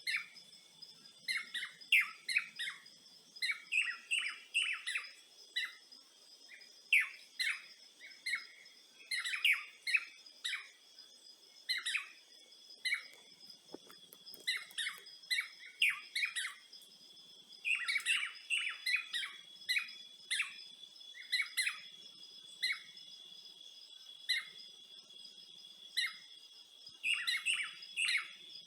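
Birds chirping in quick clusters of short calls, over a steady high-pitched drone of insects.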